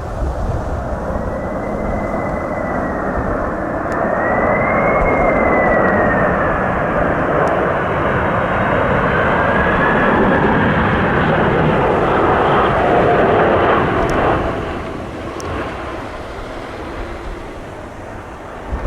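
Jet airliner passing low on landing approach in a strong crosswind: its engine whine wavers up and down in pitch, grows louder to a peak about 13 seconds in, then falls away quickly. Heavy wind buffets the microphone throughout.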